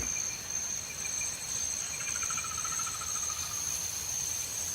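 Insects chirping in a steady, high-pitched continuous drone. About two seconds in, a short pulsed trill joins in at a lower pitch and sinks slightly before stopping.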